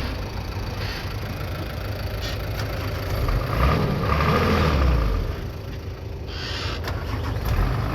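Bulldozer's diesel engine running, getting louder for a second or two in the middle, then easing off and building again near the end.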